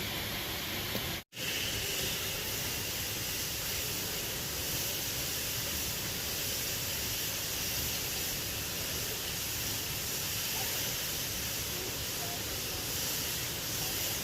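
Steady rushing of a waterfall, a constant even roar of falling water, cut off for an instant about a second in.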